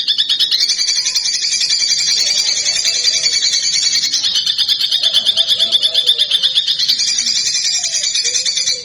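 A songbird's fast, dry, rattling trill of repeated sharp notes, about ten a second, kept up without a break and cutting off suddenly at the end.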